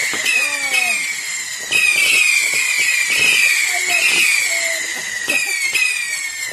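A garden firework giving off a continuous run of shrill whistles, each one starting suddenly and falling in pitch, several a second, with fresh louder bursts of whistling about a second and a half in and again about five seconds in.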